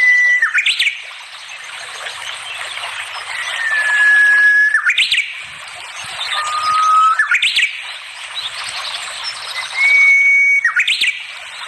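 A songbird singing: a long steady whistled note, each at a slightly different pitch, ending in a quick rising-and-falling sweep, repeated about every three seconds over a continuous fast chattering twitter.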